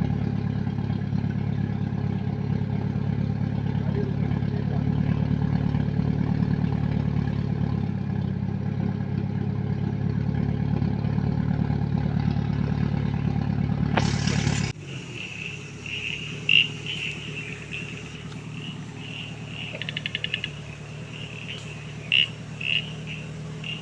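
A 4x4 off-road vehicle's engine idling steadily, then dropping away suddenly after a brief loud rush about fourteen seconds in. A fainter hum and a high, pulsing chirping follow.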